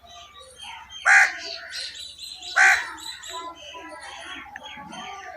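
A crow cawing twice, loud and harsh, about a second and a half apart, over the steady twittering of smaller birds, likely sparrows.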